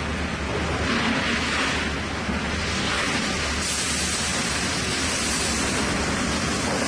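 Sawmill machinery running: a steady low hum under loud, rushing hiss that swells and eases every second or two, with the hiss growing brighter a little past halfway.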